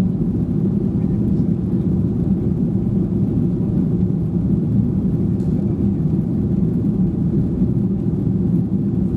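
Steady low rumble of a Boeing 737-800's jet engines and airflow, heard inside the passenger cabin.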